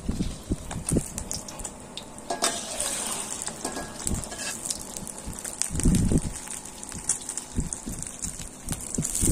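Beaten egg frying in deep hot oil in a steel wok, sizzling and bubbling, with a metal spatula scraping and clicking against the wok. A brief low rumble comes about six seconds in.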